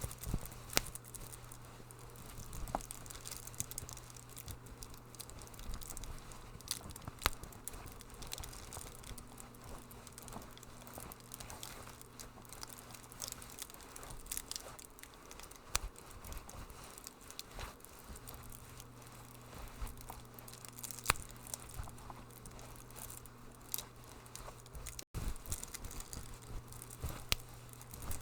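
Wood fire in a fireplace crackling, with frequent irregular pops and snaps over a soft hiss and a steady low hum. A split-second dropout comes near the end.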